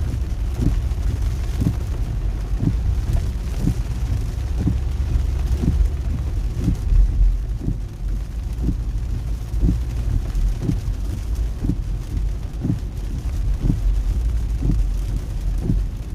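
Car driving on a rain-soaked toll road: a steady deep rumble of road and tyre noise with rain hiss, and a short soft thump about once a second.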